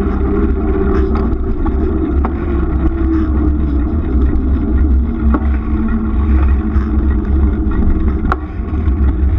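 Steady low rumble of wind buffeting the microphone while riding, mixed with road noise and a few faint clicks.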